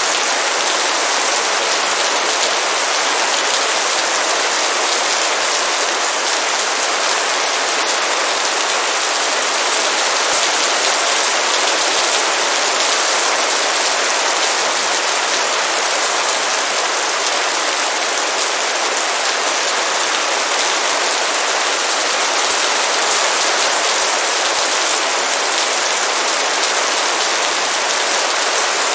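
Heavy rain pouring down steadily, a dense even hiss of many drops striking a surface.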